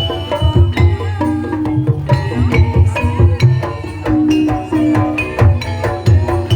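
Live ebeg gamelan accompaniment: kendang hand drums beating a busy rhythm over struck metallophone tones, in the style of Banyumas ebeg music.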